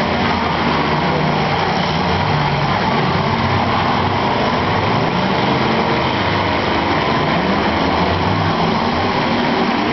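Engines of several demolition derby cars running and revving together, a loud, steady din with the pitch wavering up and down.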